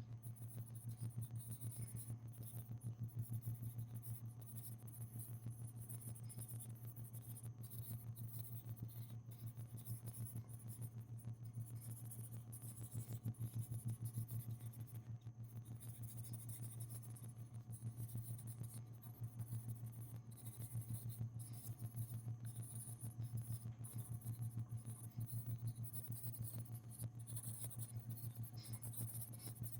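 Colored pencil scribbling back and forth on paper, a rapid run of faint scratchy strokes, over a steady low electrical hum.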